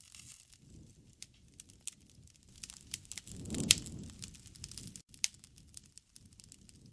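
Wood fire crackling with scattered sharp snaps over a low rumble of flame, swelling louder a little past three seconds in to one loud pop, with another pop about five seconds in.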